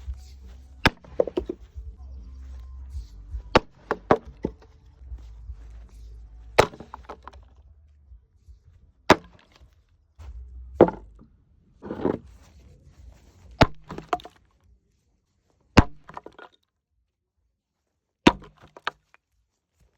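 A wooden box being smashed apart: about ten hard blows, one every second or two, each with wood cracking and splintering.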